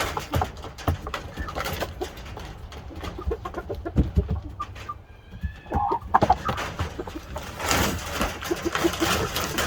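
Shamo gamefowl clucking, among scattered knocks and scuffing, with a short high call about five seconds in and a louder stretch of rustling near the end.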